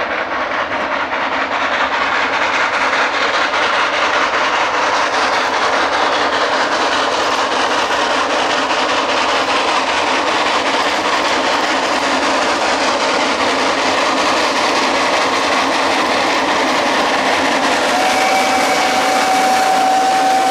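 Narrow-gauge freight train hauled by a steam locomotive, running on the line with a steady, fairly loud noise. A steady high tone comes in near the end.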